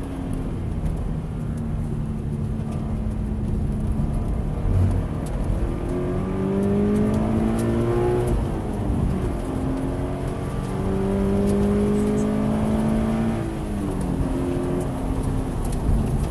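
2016 Scion FR-S's 2.0-litre flat-four engine accelerating hard on track, its pitch climbing through long pulls and dropping sharply about eight and fourteen seconds in at a shift or lift, with a steady hiss underneath from the wet track.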